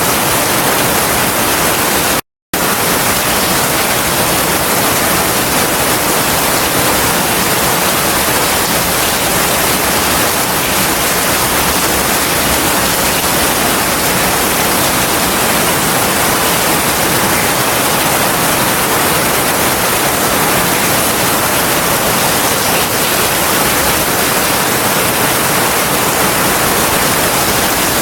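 Heavy rain falling steadily, a dense even hiss with no thunder. It cuts out completely for a fraction of a second about two seconds in.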